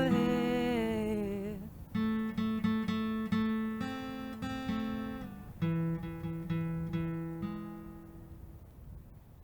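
Closing music: a held note glides down and stops, then an acoustic guitar plucks a few notes and chords that ring out and fade away.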